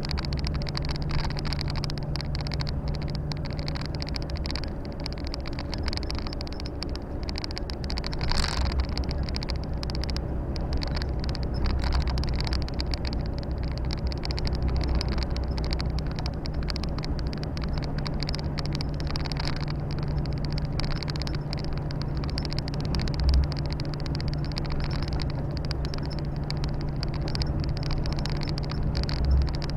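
Volvo FH 460 truck's 13-litre six-cylinder diesel heard from inside the cab while driving: a steady drone with road and wind noise. Two brief low thumps come in the second half.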